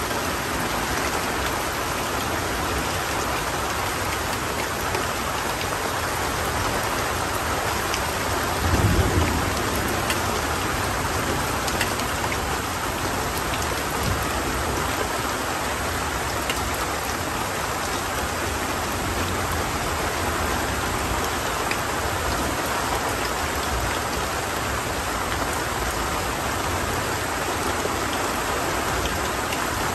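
Heavy tropical rain falling steadily through forest, with a few sharp drip taps. About nine seconds in, a brief low rumble of thunder rises and fades.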